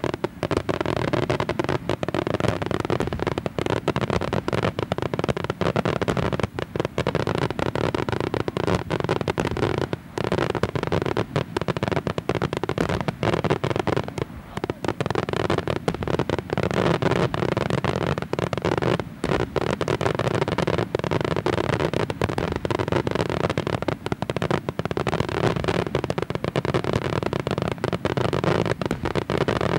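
Daytime aerial fireworks display: a dense, unbroken rapid-fire string of shell bursts and crackling bangs.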